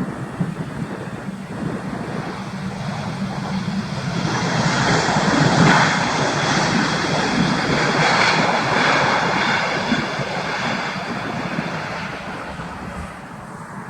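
Airbus A320-214 jet airliner with CFM56 engines passing close by. Its roar swells over a few seconds, holds, then fades away near the end.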